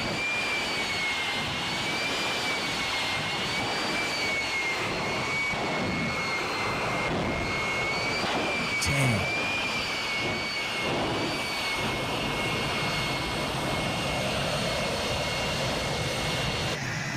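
Jet engine running with a steady high whine over a broad roar, its pitch wavering slightly; a short knock about nine seconds in.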